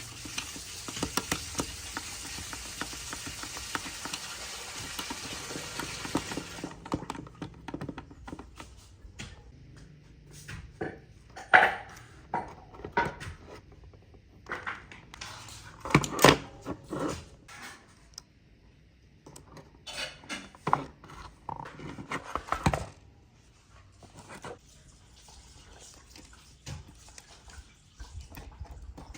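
A steady hiss that cuts off suddenly about six and a half seconds in, followed by scattered clinks and knocks of hard objects being handled.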